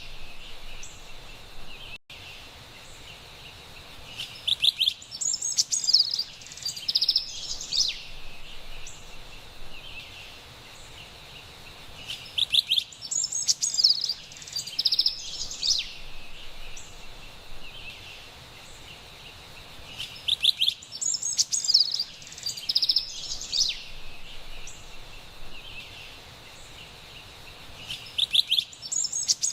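Carolina wren singing: a bout of rapid, repeated high notes comes about every eight seconds, four times in all, over a steady high background hiss.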